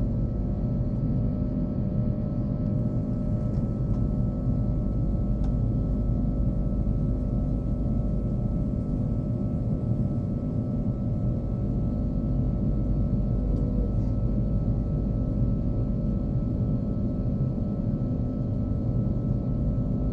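Steady low drone of a jet airliner's cabin in flight, the Airbus A330-300's engines and airflow, with a few faint steady tones above the rumble.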